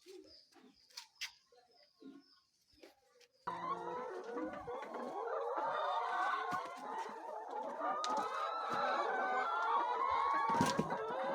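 A flock of chickens clucking and calling all together, many birds at once, starting suddenly about three seconds in; before that only a few faint clicks.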